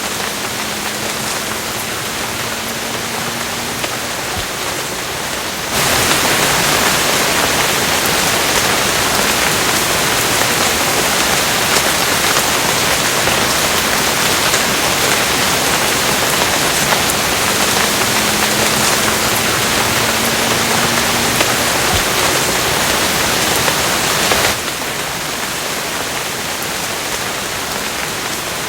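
Steady, dense rainfall hiss. About six seconds in it jumps abruptly to a louder, brighter downpour, then drops back just as suddenly about four seconds before the end.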